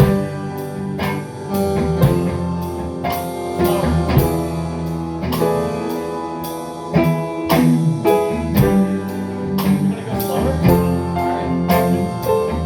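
A band playing an instrumental passage: guitar chords and notes over a steady drum-kit beat.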